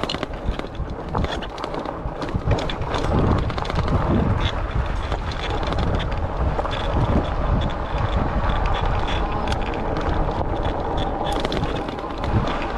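Wind buffeting the microphone while riding a RadRover electric fat-tire bike, with frequent small clicks and rattles from the bike rolling over the path.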